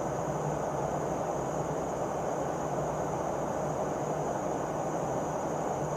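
Steady cabin drone of a Boeing P-8A Poseidon in flight: its twin turbofan engines and airflow heard from inside the aircraft, even and unbroken.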